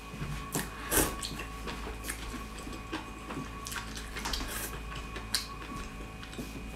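Close-miked eating: wet chewing and slurping with scattered sharp mouth clicks and smacks, the loudest about a second in.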